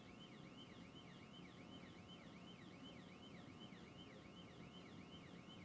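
Faint police siren on a fast yelp, its pitch sweeping up and down about three times a second.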